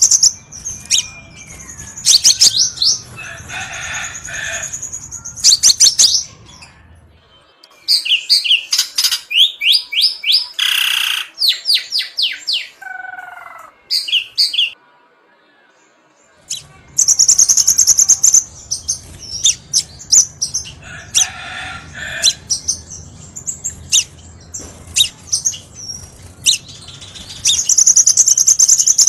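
Crimson sunbird song: phrases of rapid, high-pitched chirps and trills, repeated with short pauses and a brief silence about halfway through.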